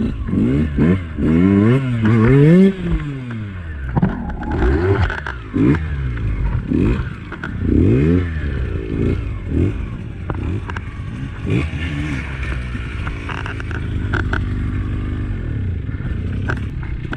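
Two-stroke enduro dirt bike engine revving hard, its pitch swinging up and down with the throttle, then settling to a steadier lower note near the end, with a few knocks mixed in.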